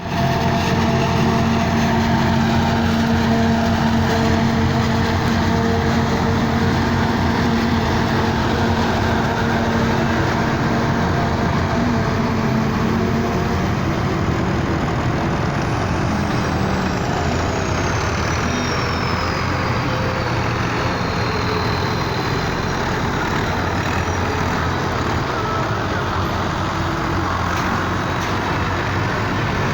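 Engine of silage-making farm machinery running steadily under load. Its pitch shifts about halfway through, and a thin high whine slowly falls in pitch over several seconds.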